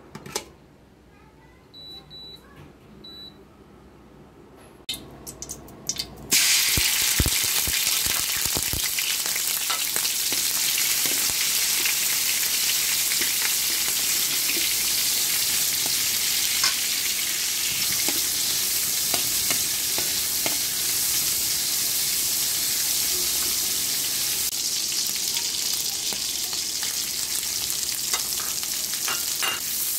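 A few short beeps from an induction cooktop, then about six seconds in a loud sizzle starts as small shrimp go into hot oil in an aluminium wok. The sizzling continues, with a metal spatula scraping and clicking against the pan as the shrimp are stirred.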